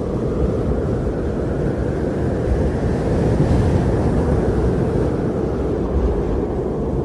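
Strong blizzard wind blowing as a steady deep rush, swelling a little around the middle.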